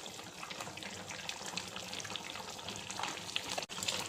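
Chicken curry bubbling and sizzling in a kadai as it cooks down, a steady crackle of small pops, with a brief break near the end.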